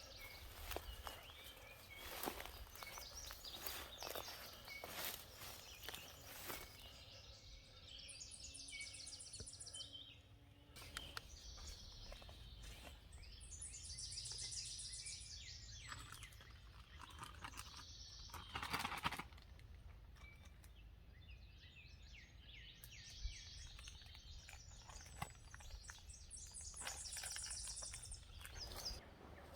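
Footsteps along a woodland trail, with songbirds singing: a high song phrase repeating three times, about every six to twelve seconds, among other chirps.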